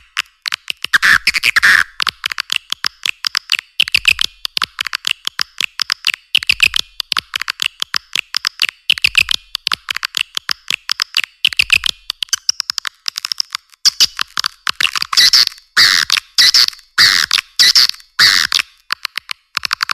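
Swiftlets calling: rapid, dense chittering and buzzy twitters, swelling into louder bouts about every two and a half seconds. This is a swiftlet call recording.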